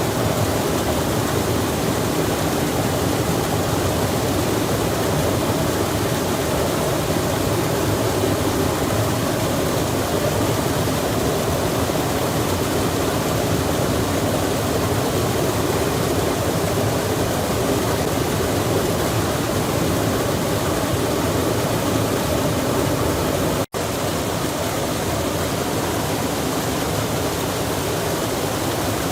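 Steady rushing of a stream with rain falling, an even wash of water noise. It cuts out for an instant about 24 seconds in, then resumes unchanged.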